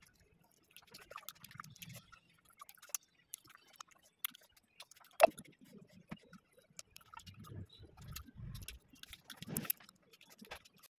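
Close-up eating sounds of dried pork being chewed: scattered small mouth clicks and smacks, with one sharp, loud click about five seconds in.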